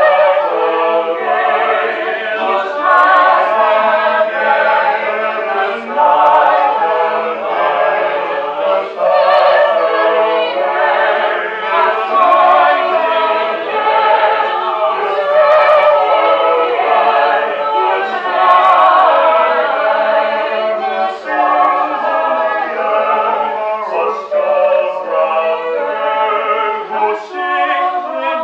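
Eight mixed male and female voices singing a part-song in harmony, their lines overlapping continuously.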